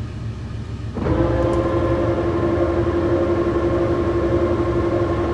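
Old Monarch engine lathe running under power for a single-point threading pass: a low steady hum, then about a second in it gets louder with a steady whine that holds.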